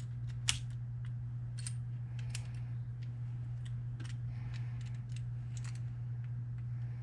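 Small metal parts of a Paclock 90A Pro padlock being handled during reassembly: irregular sharp clicks and taps a second or so apart, over a steady low hum.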